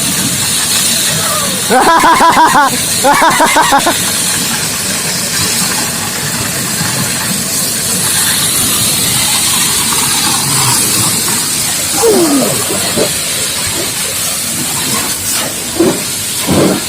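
High-pressure water jet from a booster-pump washer hissing steadily as it sprays. Loud shouted calls cut in twice about two to three seconds in, and shorter voice sounds come near the end.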